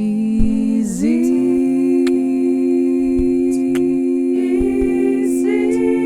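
A singer holds one long sung note, dipping in pitch and coming back up about a second in, then steady. Soft acoustic guitar notes sound underneath.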